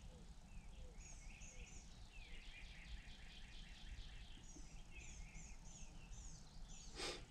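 Birds singing faintly, a steady run of short chirps and slurred whistled notes, over a low steady rumble. A brief rustle sounds near the end.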